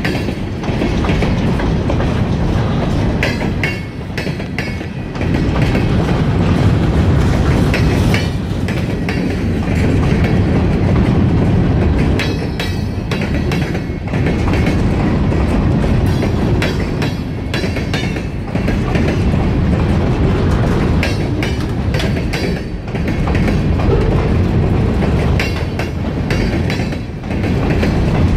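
A freight train of covered hopper cars rolling past close by: a steady low rumble with wheels clicking over rail joints, the level dipping briefly every few seconds.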